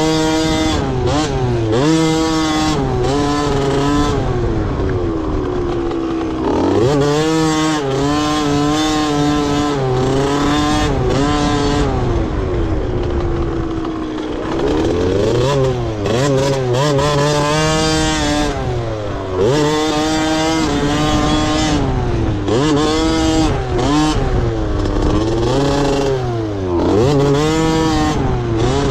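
Motocross dirt bike engines racing, revving hard and shifting over and over, the pitch climbing with each gear and dropping back again.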